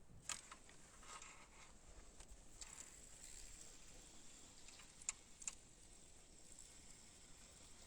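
Near silence with a few faint, sharp clicks, the loudest about five seconds in, over a low hiss.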